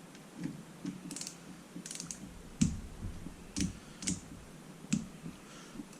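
Hand tools clicking and clinking on engine bolts being tightened to 9 foot-pounds: a dozen or so sharp, unevenly spaced metallic clicks and light knocks.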